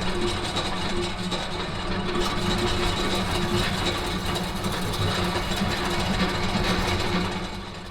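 Machinery running steadily, a constant hum with a high whine over it, fading out near the end.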